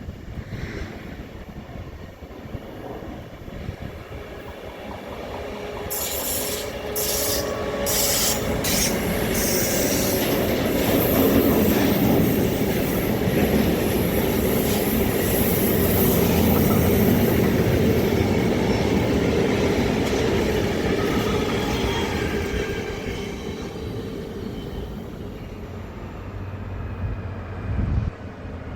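A train passing on the rails: it builds from about six seconds in with a series of sharp high clicks, is loudest in the middle and fades away near the end.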